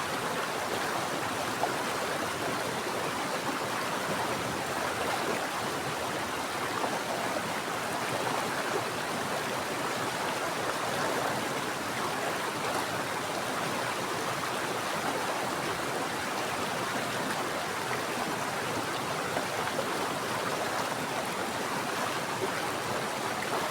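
Mountain stream flowing steadily over rocks, an even rushing and babbling of water.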